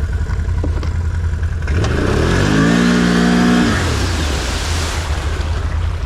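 Off-road vehicle engine idling with a steady low throb. About two seconds in it is revved up, held for about a second, then let back down to idle.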